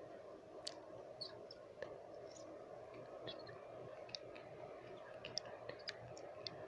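Close-up wet mouth sounds: many short tongue clicks and lip smacks at uneven intervals, faint, over a steady low white-noise hiss.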